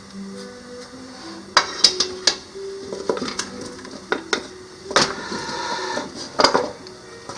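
Metal cookware and utensils clinking and knocking in irregular strikes, over soft background music with a simple stepping melody.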